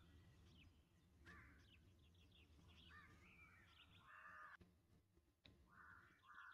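Faint crows cawing several times over quiet outdoor background ambience.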